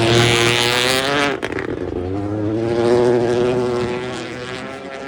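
Rally car engine at full throttle on a stage. Its note breaks off for a moment about a second and a half in, then pulls hard again and fades away near the end.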